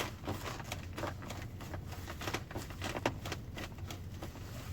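Skoda Kodiaq rear door handle behind the driver being pulled over and over, giving a string of short creaks and clicks: the handle creak that is still there after the dealer's warranty diagnosis.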